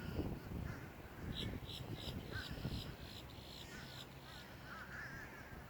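Crows cawing in a quick run of about eight short calls, with other small birds chirping, over a low rumble of wind on the microphone.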